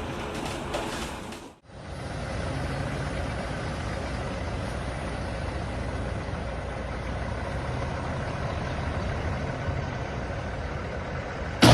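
An engine running steadily with a low hum. There is a brief break to silence about a second and a half in, and a loud sudden noise right at the end.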